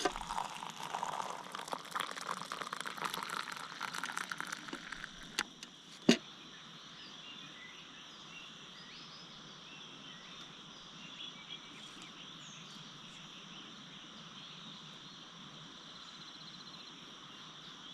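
Rustling and crackling for the first five seconds, then a single sharp knock about six seconds in. After that a steady, even chorus of insects, crickets by the sound of it, runs on alone.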